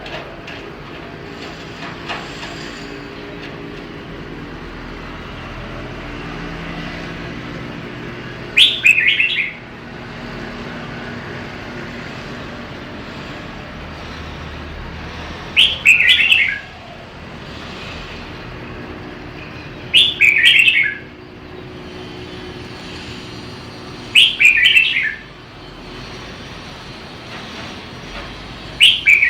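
Red-whiskered bulbul singing: five short phrases of about a second each, the first after about eight seconds and the rest every four to seven seconds. Under them runs a fainter steady background hum.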